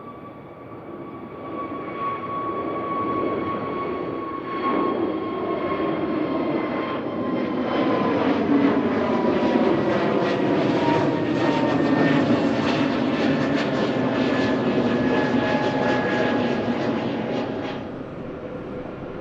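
Jet airliner passing close by, its engine noise building to a loud rumble with a whine that slowly falls in pitch, then dropping off sharply near the end.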